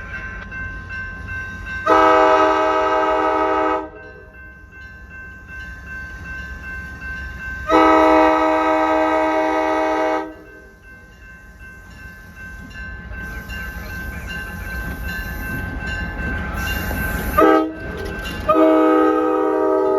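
Diesel locomotive air horn sounding the grade-crossing signal: two long blasts, a short one and a final long one, a chord of several tones, over the low rumble of the approaching train.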